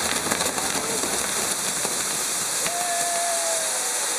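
Ground fireworks burning on spinning wheel frames: a loud, steady hiss of many fountains, with a few crackles in the first second. About three seconds in, a whistle note starts and slides slightly lower.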